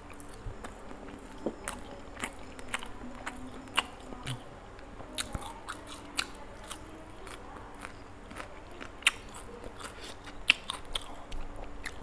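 Close-miked chewing and biting of spicy chicken, with many short mouth clicks and smacks and a few sharper crunches, the two sharpest about three-quarters of the way through.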